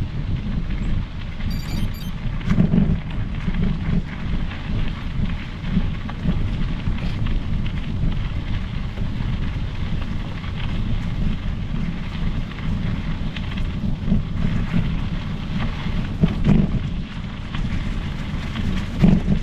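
Steady wind noise on the microphone of a moving mountain bike, with its tyres rolling over the trail and a few small knocks from bumps.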